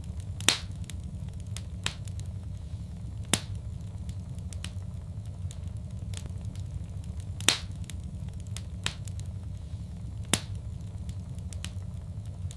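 Wood fire crackling in a fireplace: a steady low rumble of flames with sharp pops every few seconds, four of them louder than the rest.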